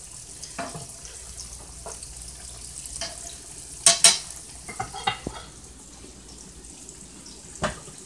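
Salmon croquettes frying in hot oil in a skillet, a steady sizzle, with a utensil clicking and knocking against the pan several times, sharpest about four seconds in.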